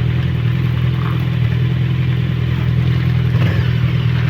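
Motorcycle engine running steadily at an unchanging pitch.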